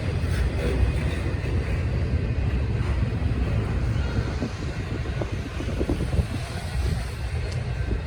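A train rolling past trackside: a steady low rumble with no clear start or stop, with wind noise on the microphone.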